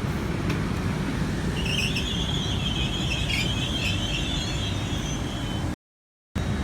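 Steady low rumble of a standing diesel train running, with a wavering high-pitched squeal from about a second and a half in until near the end, typical of steel train wheels or brakes squealing. The sound cuts out abruptly for about half a second near the end.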